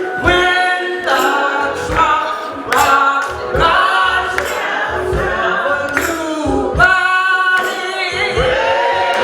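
Gospel choir singing, with a steady rhythmic beat or clapping underneath.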